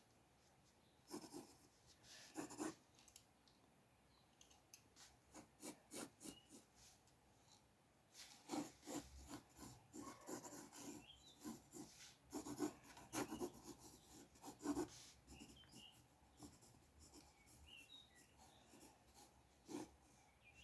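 Pencil sketching on paper: faint, quick scratchy strokes in irregular runs with short pauses, growing busier about eight seconds in.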